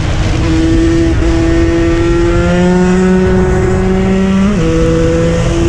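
KTM 125 EXC's single-cylinder two-stroke engine running, its pitch climbing slowly and then dropping sharply about four and a half seconds in.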